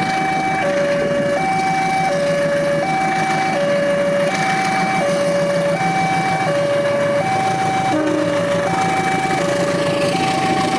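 Railway level crossing warning alarm sounding as the crossing closes: an electronic two-tone signal alternating steadily between a lower and a higher note, each held about two-thirds of a second, over a continuous rumble of noise.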